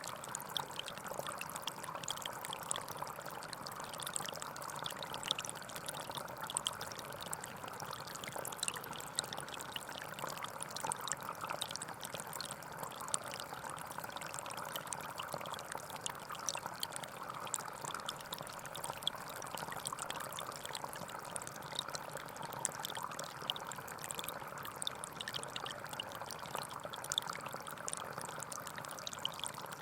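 Forest stream flowing steadily, water babbling and trickling over stones.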